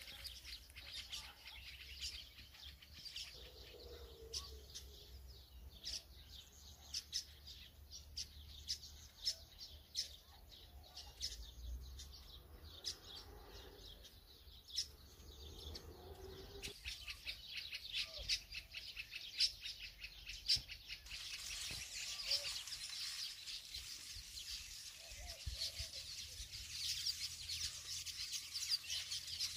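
Small birds chirping: many short, high chirps that thicken into a busier chatter over the second half.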